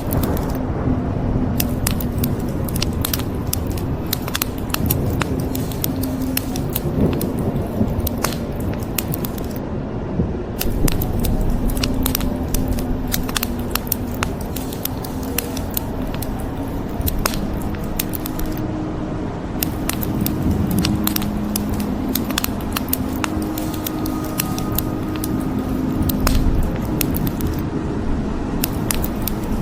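Wood fire crackling, with many sharp pops and snaps over a steady low rushing noise. Faint low held notes sit underneath in the second half.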